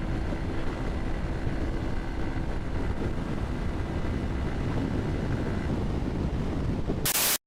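Motorcycle running at highway speed, a steady rush of wind over the microphone with engine and road noise underneath. Near the end a short burst of hiss is followed by a brief dropout.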